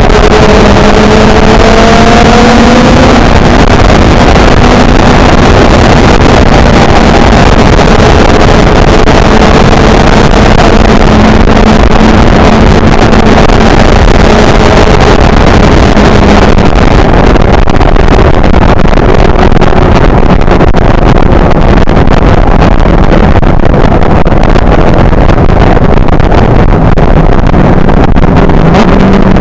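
Motorcycle riding at speed, its engine note rising over the first few seconds and then holding steady, heard under loud, constant wind rush on the camera microphone.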